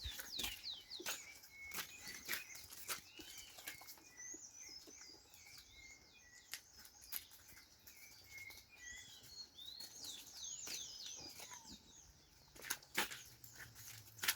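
Birds chirping faintly: many quick, high chirps one after another, with scattered light clicks and knocks in between.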